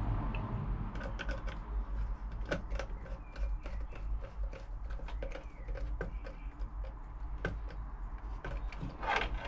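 Irregular small clicks and taps of a plastic mains plug being handled while a wire is fitted into its terminal, over a steady low hum.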